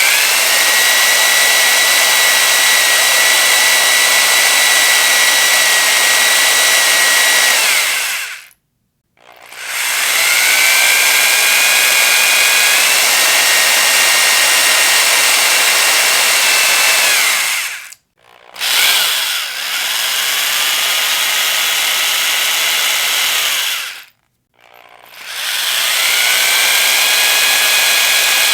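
Electric power drill running in four long bursts with brief stops between them. Its whine climbs as the motor spins up and sinks as it winds down at each stop.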